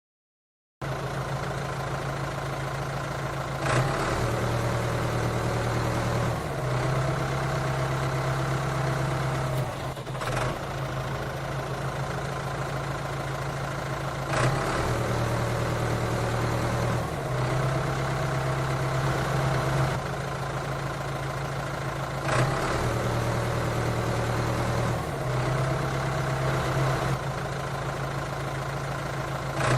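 Tractor diesel engine running steadily at idle, broken every few seconds by a short sharp click.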